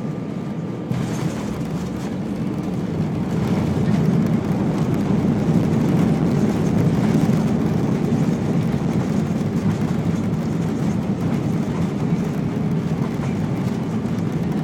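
Airbus A319 cabin noise during landing: a loud rumble of the jet engines and the runway that jumps up about a second in, swells to a peak midway, then eases off slightly.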